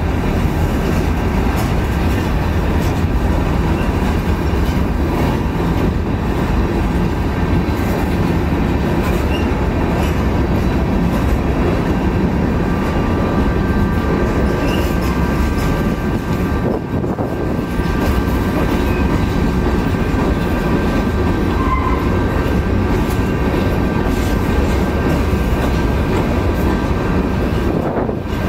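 Freight train of tank cars and covered hopper cars rolling past close by: a steady, loud rumble of steel wheels on the rails.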